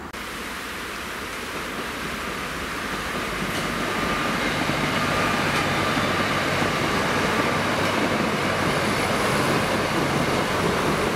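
Diesel multiple-unit passenger train running over a railway bridge: a steady noise from the train that builds over the first few seconds, then holds.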